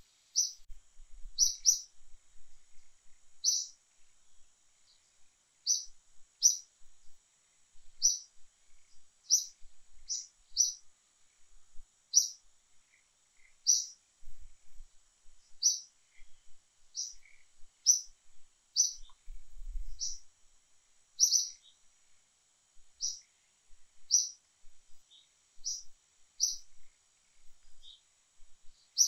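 A bird chirping over and over, short high chirps about one or two a second, over a faint steady high drone of insects.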